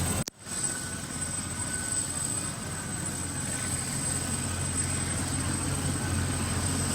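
Police helicopter's engine running with a steady low drone while the aircraft stands on the ground. A brief dropout breaks the sound about a third of a second in.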